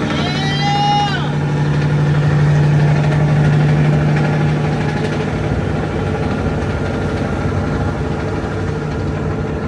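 Semi-truck diesel engine running steadily, a little louder for a few seconds near the start. About a second in there is a brief high-pitched sound that rises and falls.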